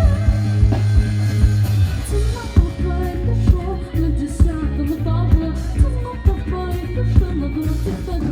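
Live rock band playing, with drums, bass and guitar, and a woman singing over it.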